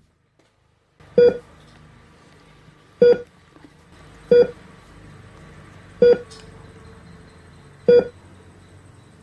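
Short electronic beeps of one steady pitch, five in all, repeating about every one and a half to two seconds over a low steady hum.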